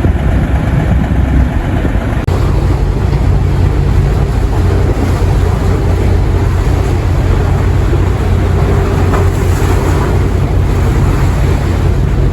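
Scallop fishing boat's engine running with a steady low rumble as the boat comes into port, mixed with wind and water noise.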